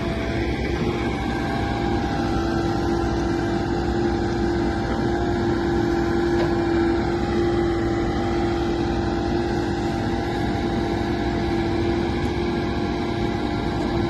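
JCB 214 backhoe loader's diesel engine running steadily with a constant whine. Little rattling from the backhoe as it is worked: a tight machine.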